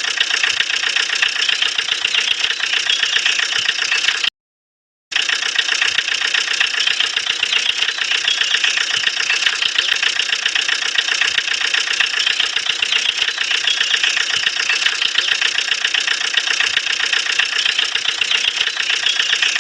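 Small toy motor of a DIY model tractor and water pump running steadily with a high, even buzz. It cuts out completely for under a second about four seconds in, then resumes unchanged.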